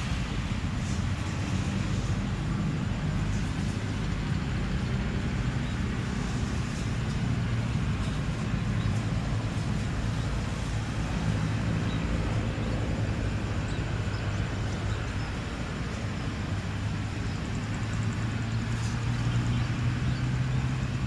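Steady low engine hum over a broad rumble, unchanging throughout.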